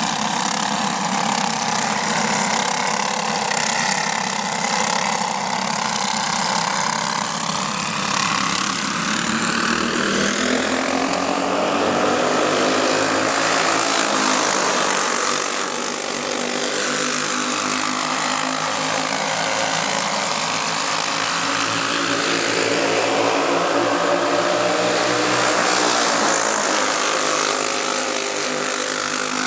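Several go-kart engines, Briggs & Stratton Animal four-strokes, running together on the track, their pitch rising and falling as the drivers get on and off the throttle.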